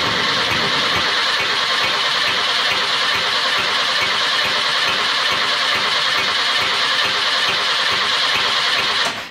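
VW bus air-cooled flat-four engine cranking on the starter with a steady, rhythmic cadence. The number 3 exhaust valve is not opening because its rocker's pushrod has fallen out, so that cylinder spits back into the intake manifold each time its intake valve opens.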